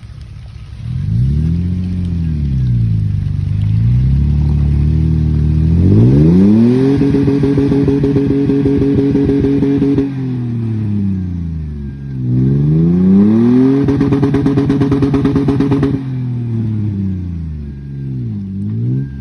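Off-road truck's engine revved hard in the mud, climbing to high revs and holding there twice for a few seconds with a fast pulsing, dropping back between, then a short blip of throttle near the end. The truck is stuck and will need a tow rope.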